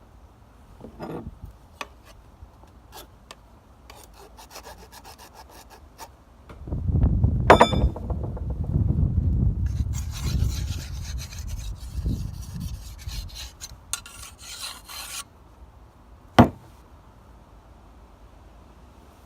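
Whetstone rubbed along the steel blade of an old sickle to sharpen it: scattered light scrapes, then a longer run of steady rubbing strokes from about a third of the way in, with a brief metallic ring early in that run and a single sharp knock near the end.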